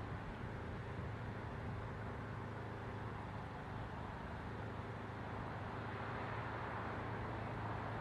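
A vehicle running steadily: a low hum under an even hiss, with no clear rise or fall.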